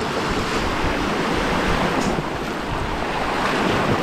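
Rough sea surf: waves breaking and washing in as a steady rushing noise, with wind on the microphone.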